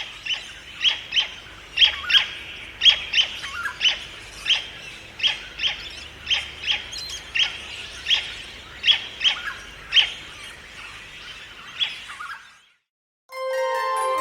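Bird calls: short, sharp chirps repeated about every half second. After a brief silence, music starts near the end.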